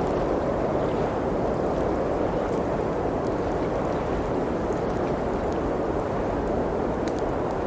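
Steady blizzard wind outside a cabin, a constant low rushing noise, with faint, scattered crackles from a wood fire in the fireplace.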